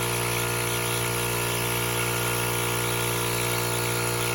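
Milking machine's vacuum pump running with a steady hum, air being drawn through the teat cups as the quarter milks out.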